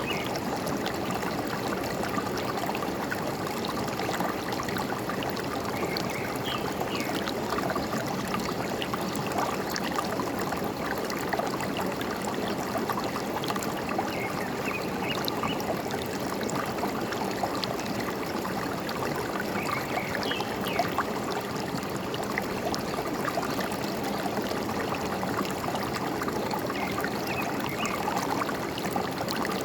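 Forest stream running steadily, with a few faint bird chirps now and then.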